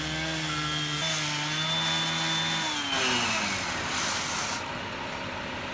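Engine-driven saw cutting pavement with a steady high whine, then winding down with a falling pitch about three seconds in. Steady machinery noise remains after it.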